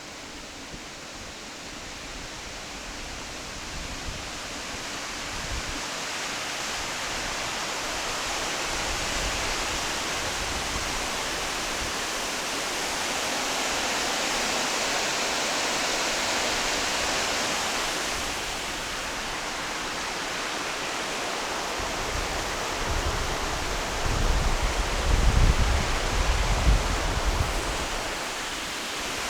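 Waterfall rushing steadily, growing louder over the first dozen seconds or so. Near the end, gusts of wind buffet the microphone with a low rumble.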